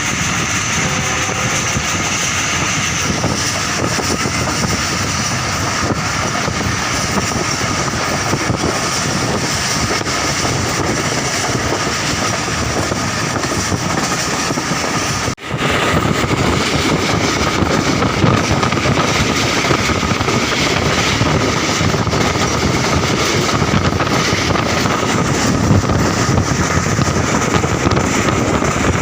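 Passenger train running along the line, a loud, steady mix of wheel and track noise and rushing air with a faint steady whine. There is a momentary drop-out about halfway through.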